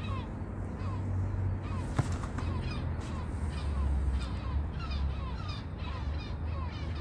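A bird calling over and over in short falling notes, about two or three a second, over a steady low rumble.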